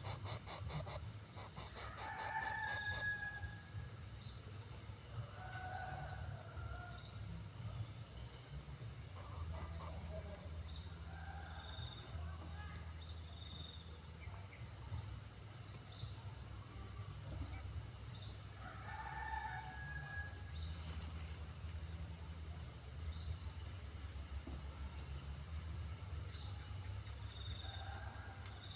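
A bird calling several times, two louder calls with a short gliding end about two seconds in and again near twenty seconds in, over a steady high drone of insects and a low rumble.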